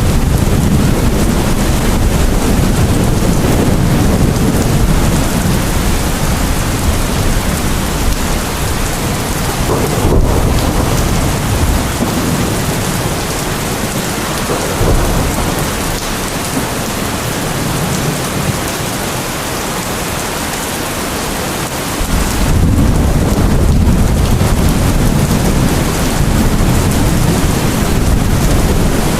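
Steady rain with deep rolling thunder: the low rumble eases off in the middle and comes back suddenly about 22 seconds in.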